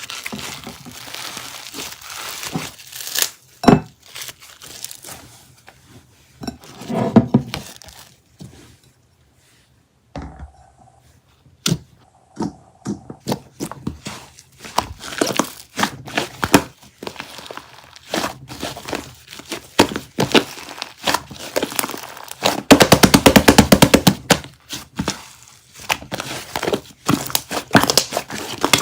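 Slime being squished, stretched and poked by hand, giving sticky clicks, pops and crackles at an uneven pace. After a short pause there is a dense run of rapid crackling about two-thirds of the way through.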